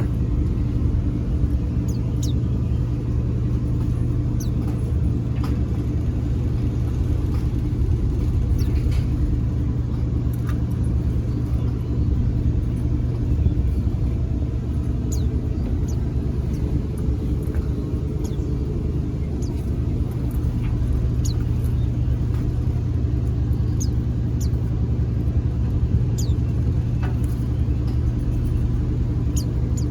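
A steady low hum with a few fixed pitches underneath, and short, high, thin chirps of white-eyes (pleci) scattered through it about a dozen times.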